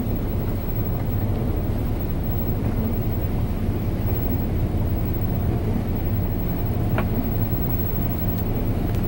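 Steady low drone of a 39-foot motorhome's engine and drivetrain, heard inside the cabin as it drives through flood water, with a faint click about seven seconds in.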